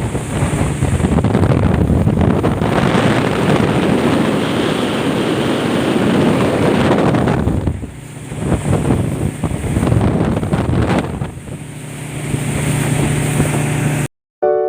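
Speedboat running across a lake, its engine hum under rushing water and heavy wind buffeting the microphone. It cuts off abruptly near the end.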